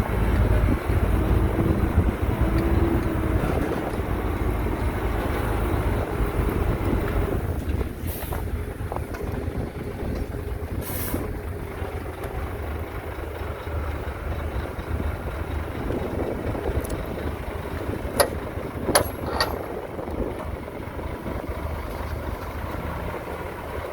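Heavy diesel engine of earthmoving machinery running with a steady low rumble that eases slightly over time. Two short hisses come near the middle, and three sharp knocks come about three quarters of the way through.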